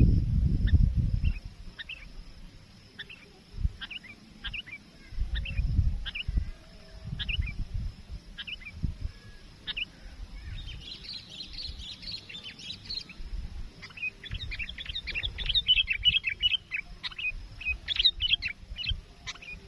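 Sooty-headed bulbul (kutilang) calling: a run of short, sharp chirps repeated about twice a second, breaking into bursts of faster chattering about halfway through and again later. A low rumble on the microphone is loudest at the very start and returns about five seconds in.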